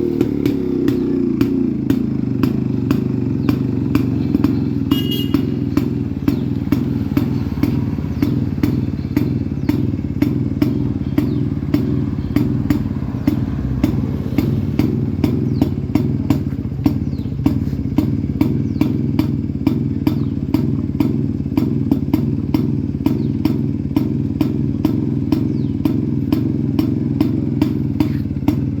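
Yezdi CL II motorcycle's 250 cc two-stroke single-cylinder engine idling steadily as the revs settle, with a sharp, regular click about twice a second.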